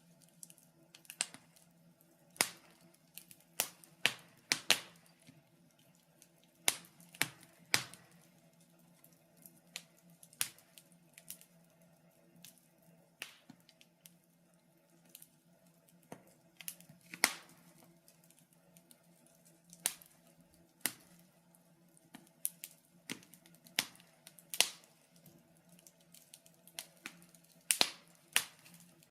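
Wood fire in a fireplace crackling: irregular sharp pops and snaps, sometimes several in quick succession, over a faint steady low hum.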